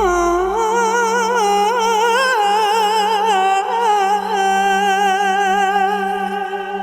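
Background music: a single voice sings a wordless, ornamented melody with vibrato, then settles on a long held note that fades near the end, over a steady low drone.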